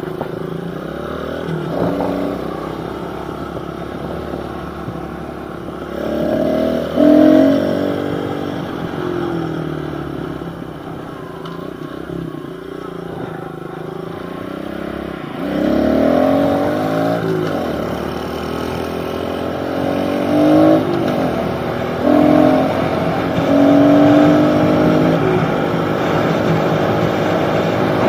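Small pit bike engine running as it is ridden along a road, the revs rising and falling several times as the rider accelerates and shifts.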